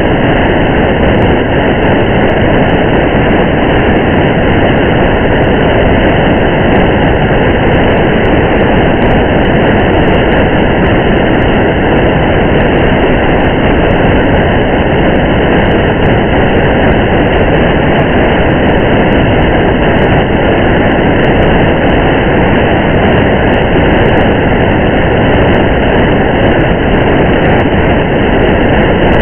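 Steady rain and road noise heard from inside a moving car: an even, unbroken rushing hiss with faint scattered ticks above it.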